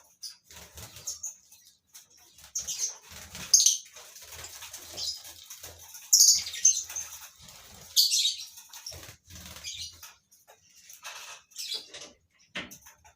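Lovebirds in a colony cage giving irregular sharp, high-pitched chirps and shrieks, several loud calls standing out, with wings flapping in short bursts.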